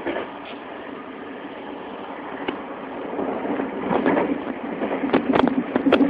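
Running noise of a JR West 225 series electric train heard from inside the car, growing louder from about halfway through. In the last few seconds there are several sharp clacks from the wheels on the track.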